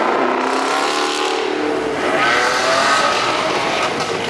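Car engine revving loudly, its pitch sliding up and down as the throttle is blipped.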